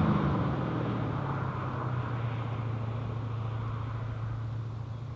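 Chevrolet LS6 5.7-litre V8 of a DeLorean DMC-12 heard receding after a fast pass, a steady low exhaust drone fading away.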